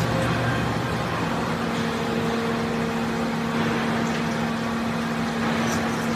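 Mitsubishi horizontal floor-type CNC boring mill running: a steady machine hum made of several tones over a noise haze. About a second in, the lower tones drop away and a new steady tone takes over.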